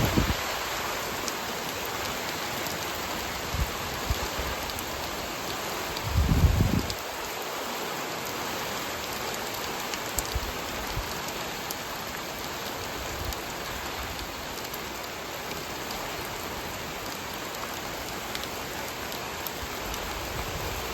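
Steady rain falling on a planted field, an even hiss. There are brief low rumbles at the start and again about six seconds in.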